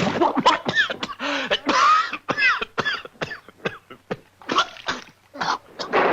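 A quick run of short cartoon-style sound effects: about a dozen sharp pops and squeaky blips, several bending up and back down in pitch, with brief gaps between them.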